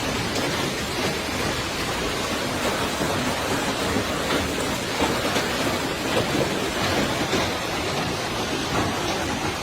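Hail and heavy rain falling hard, a steady dense patter of many small hits.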